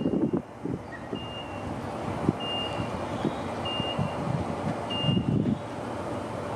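Short high-pitched warning beeps repeat about once every 1.2 seconds over the low, steady hum of an electric commuter train standing at a platform.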